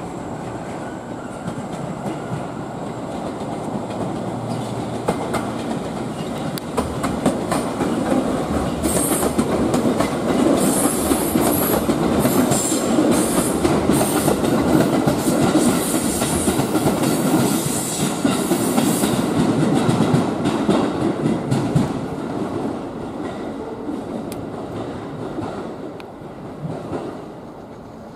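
JR East 211 series electric multiple unit rolling over station pointwork, its wheels clacking over rail joints and points. The rumble builds to a peak midway, with a high wheel squeal from about a third of the way in, then fades as the train pulls away near the end.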